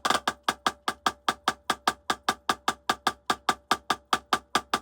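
Drumsticks playing an even run of single strokes, about six a second, as a rudiment exercise. Under the strokes is a faint steady ring, sympathetic vibration from a nearby drum set.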